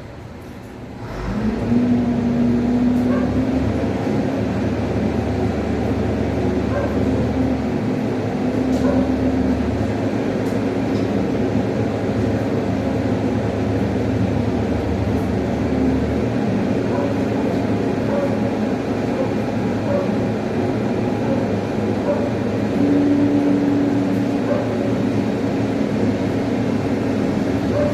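A motor running steadily with a low hum, starting up about a second in and winding down with a falling pitch near the end.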